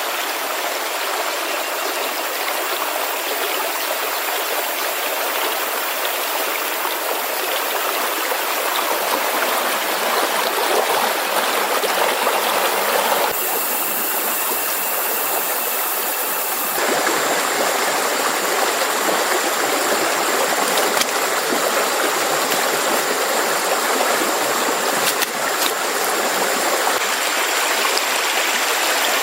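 Steady rushing of a stream's water. Its tone shifts for a few seconds near the middle, and a few faint ticks come near the end.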